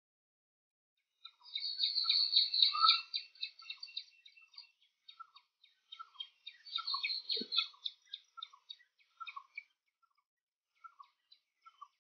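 Birds calling, starting about a second in: quick bursts of high chirping twittering over a steady series of lower, hooked call notes repeated about twice a second. There is one brief low sound about seven seconds in.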